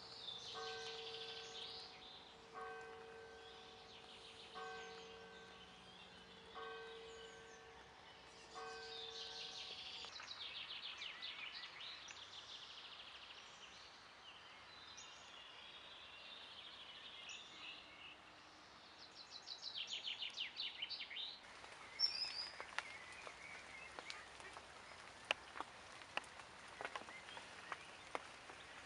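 A faint bell tolling slowly, about one stroke every two seconds for some ten seconds, over birds chirping and trilling. In the last third, a scatter of sharp clicks and taps.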